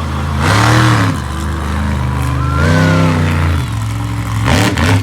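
Monster truck engine revving hard in two big surges, its pitch rising and falling each time, with a couple of sharp knocks near the end.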